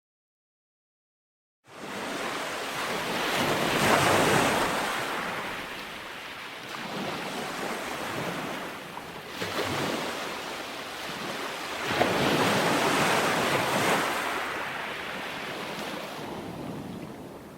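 Ocean waves rolling and breaking on a shore, the surf rising and falling in several surges. It starts after about a second and a half of dead silence at the beginning.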